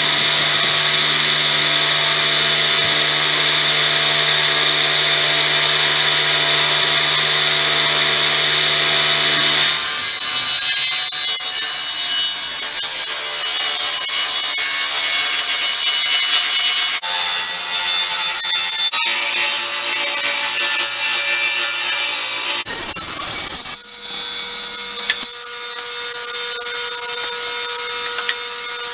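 Table saw running and cutting wooden boards, several separate cuts joined one after another, the motor note changing abruptly between them.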